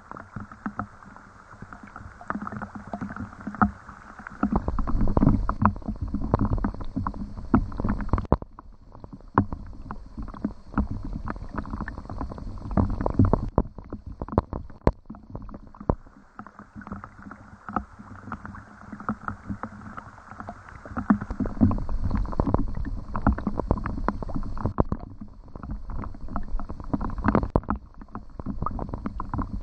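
Rain falling, with many irregular heavy drops and splashes close by over a steady wash of water noise.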